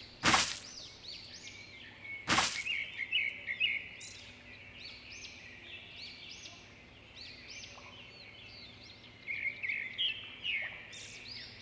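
Small birds chirping and calling repeatedly in quick, high notes. Two sharp knocks come near the start, about two seconds apart.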